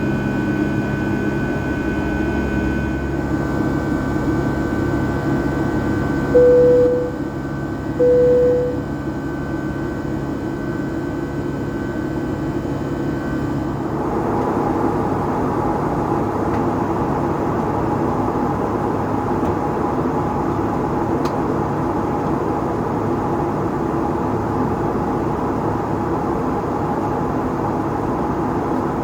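Cabin drone of a Boeing 757-200's Rolls-Royce RB211-535E4B engines in flight, a steady rush with engine tones that shift to a different pitch about halfway through. Two short, loud chime tones at the same pitch sound about a second and a half apart, a quarter of the way in.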